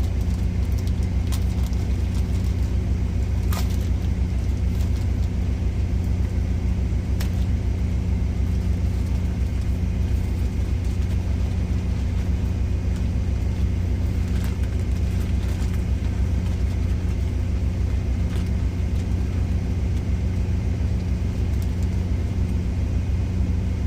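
A truck's engine idling, a steady low drone heard from inside the cab, with a few faint clicks and knocks of things being handled.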